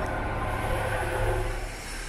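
Train running on the rails: a steady rumble with a faint whine, easing a little near the end.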